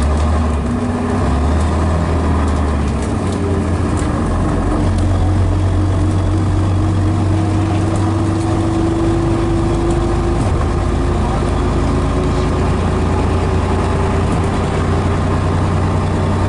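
Scania DS11 six-cylinder diesel of a Scania BR111DH / MCW Metropolitan double-decker bus running steadily, with a whine that climbs slowly in pitch over several seconds around the middle and then eases back.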